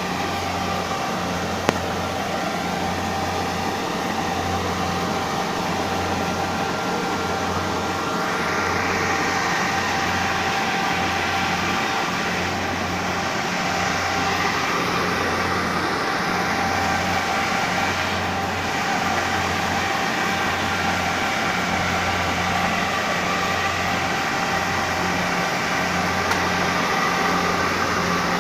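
Combine rice harvester running steadily, a continuous machine noise with a low hum that pulses about once a second.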